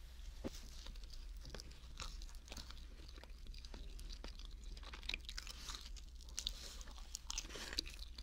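Close-up chewing of a mac and cheese sandwich on a binaural microphone: soft, wet mouth sounds with many small clicks and crunches.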